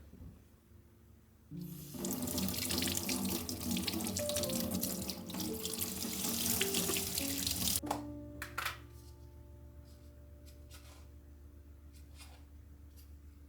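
Water running from a tap into a container for about six seconds, its pitch rising as the container fills, then shut off abruptly; a couple of light knocks follow.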